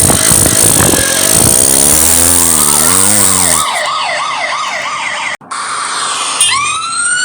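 A police car siren sound effect wails in quick up-and-down cycles from about two seconds in, over a noisy vehicle sound at the start. The sound cuts out for a moment past five seconds, then a siren winds up, rising, near the end.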